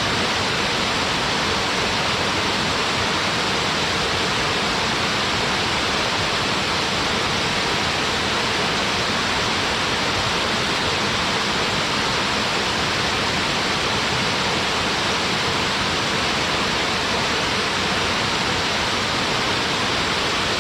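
Small mountain waterfall, water falling and splashing in a steady, unbroken rush.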